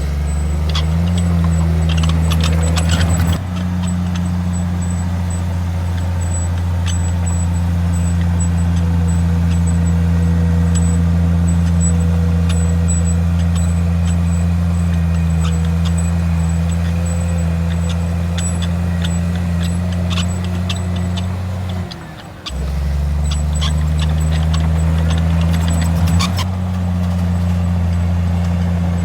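Heavy diesel engine of earthmoving machinery running steadily under load, with scattered clanks and knocks. The sound drops away briefly about three quarters of the way through, then comes back.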